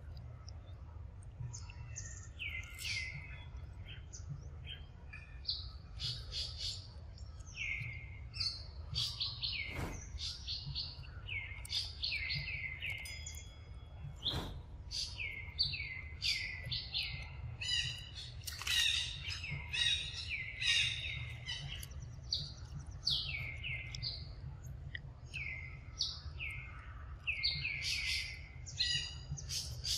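Birds chirping in quick runs of short, high calls that each drop in pitch, over a steady low background rumble. Two sharp clicks about ten and fourteen seconds in.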